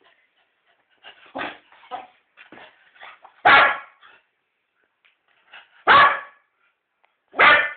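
A dog barking excitedly for chewing gum. Softer short yips come first, then three loud barks about two seconds apart.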